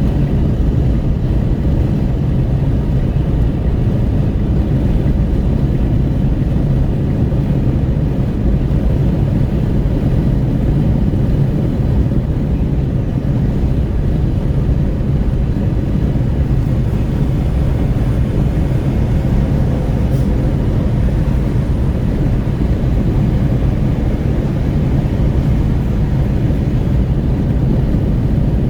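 Steady rush of wind at the open window of a Renault Kwid 1.0 cruising on the highway, mixed with tyre and road noise, heard from inside the cabin.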